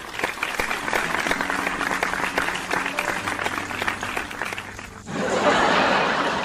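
Sitcom studio-audience applause, many hands clapping; it swells louder and fuller about five seconds in.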